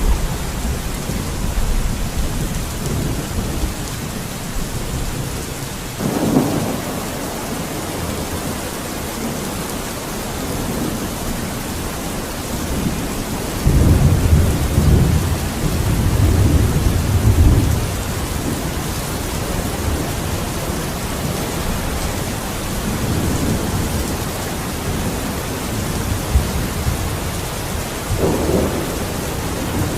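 Steady heavy rain with rolling thunder: a low rumble about six seconds in, a longer, louder roll from about 13 to 18 seconds in, and another rumble near the end.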